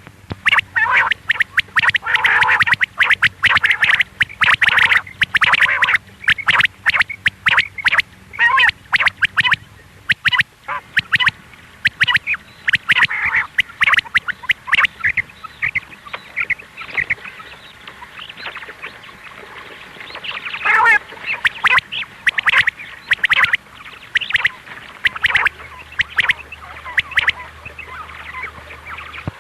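Quail (batair) calling: fast runs of short, repeated notes. The notes are dense for the first half and come in sparser clusters later.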